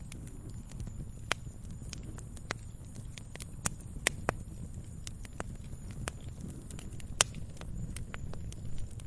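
Campfire crackling: irregular sharp pops and snaps of burning wood over a low steady rumble. The loudest snap comes about seven seconds in.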